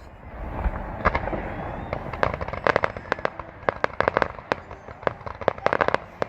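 Fireworks going off: a low rumble at first, then from about two seconds in a rapid run of sharp crackling pops, several a second.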